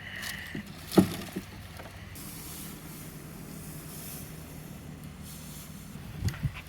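A vehicle engine idling steadily with a low hum. There is a sharp knock about a second in and a couple of dull thuds near the end.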